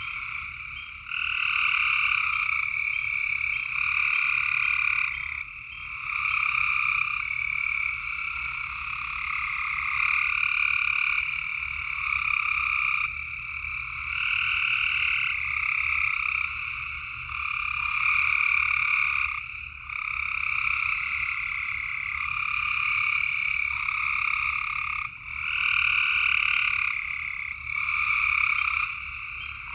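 A chorus of frogs calling at night, with many overlapping calls a second or two long running on without a break.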